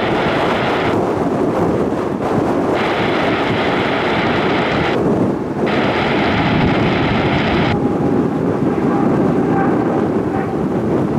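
Jet airliner's engines rumbling loudly and steadily as it passes. Blocks of hiss from the air traffic control radio switch on and off over it.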